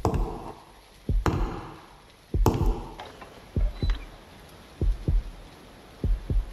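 Slow, heavy footsteps from a horror sound effect: a steady tread of about one step every 1.2 seconds, six in all. Each step lands as a double thud with a short echoing tail.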